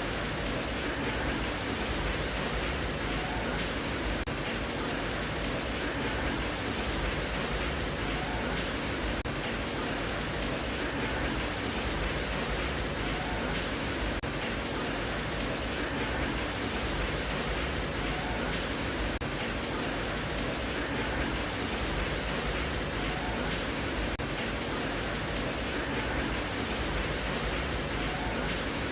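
Steady rain noise, an even unbroken hiss with no separate drops or thunder standing out.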